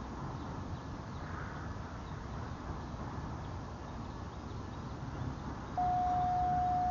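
Freight train rolling slowly across a drawbridge, a steady low rumble. About six seconds in, a single steady electronic beep from a radio scanner starts.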